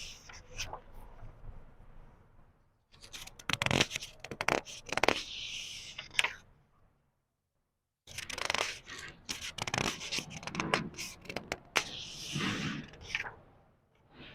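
Book pages being turned slowly by hand: paper rustling and crackling in two long stretches, with a second of dead silence between them.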